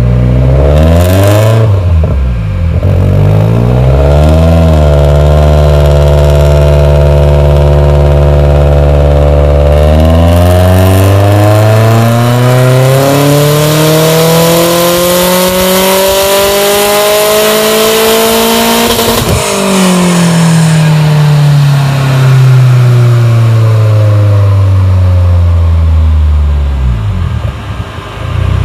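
Turbocharged Subaru WRX flat-four engine doing a dyno pull. After a couple of quick blips and a short steady hold, the engine note climbs steadily for about nine seconds, cuts off sharply, then winds down through a long falling note toward idle.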